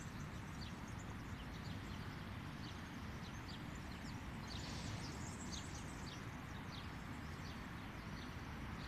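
Small birds chirping in the distance: many short, high chirps that slide downward, scattered irregularly, over a steady low background rumble.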